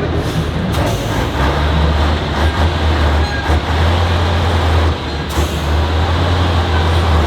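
Heavy off-road trial truck's engine running loud and steady under load, with a strong low rumble.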